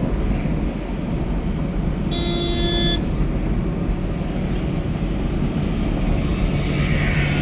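Steady road noise of a vehicle in motion, a low engine rumble mixed with wind and tyre noise. About two seconds in, a horn sounds once for about a second.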